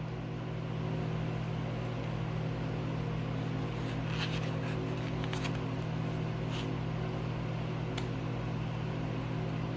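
Steady low mechanical hum, like a fan or motor, with a few brief faint crackles and ticks in the middle.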